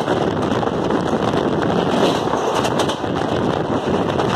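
Steady rush of wind on the microphone over the running noise of a passenger train at speed, heard from an open window of the coach.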